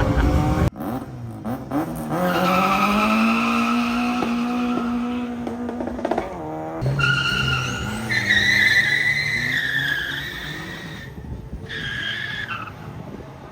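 A car's tyres squealing under engine power in long high-pitched stretches, with the engine running underneath. There are two long spells of squeal and a short third one near the end.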